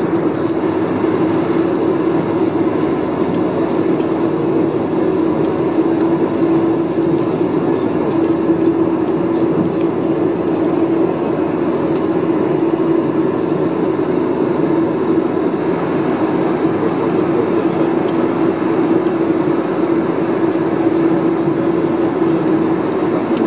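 Boeing 747-400 cabin noise heard from inside the passenger cabin: a loud, steady rumble of engine and airframe with a constant low hum that holds steady throughout.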